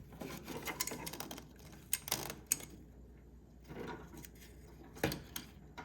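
Faint scattered clicks and light knocks of small parts and tools being handled, the sharpest about two seconds in and again near the end.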